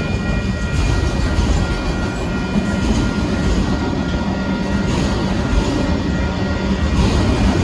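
Union Pacific autorack freight cars rolling steadily past at a grade crossing: a loud, continuous rumble and clatter of wheels on rail. Above it, a faint repeating ringing tone from the crossing bell.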